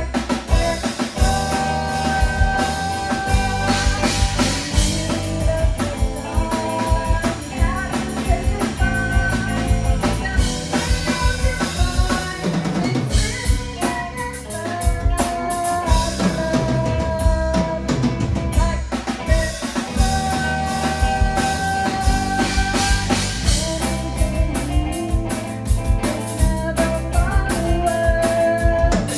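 Live band playing a song: a full drum kit keeps a steady beat under held melodic notes from the other instruments.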